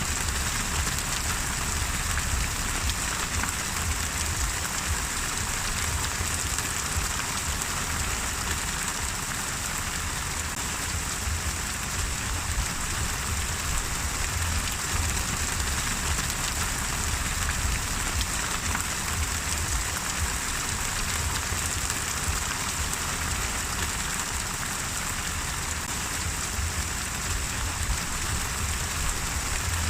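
Steady rain falling and pattering on a surface, even and unbroken.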